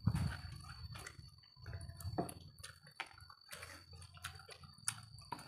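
Close-miked mouth sounds of people eating chicken wings: chewing and lip smacks, heard as many small irregular clicks and smacks.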